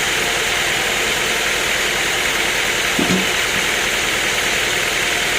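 Sawmill machinery running steadily, a constant mechanical noise, with one short knock about three seconds in.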